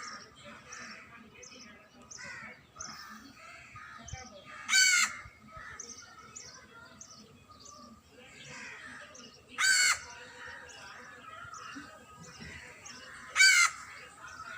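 A bird gives a loud, short, harsh call three times, about every four to five seconds, over a steady background of many small birds chirping.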